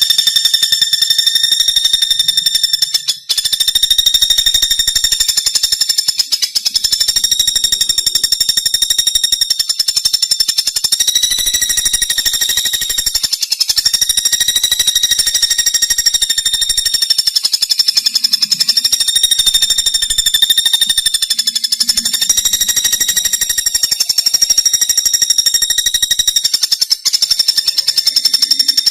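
Pelatuk bawang woodpecker calling a continuous, very rapid rattling trill, high-pitched and buzzy, with a brief break about three seconds in.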